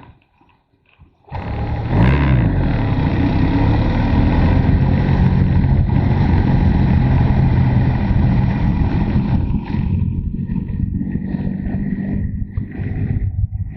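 Motorcycle engine coming in suddenly about a second in, rising in pitch as it accelerates, then running steadily under load with wind noise, and easing off near the end.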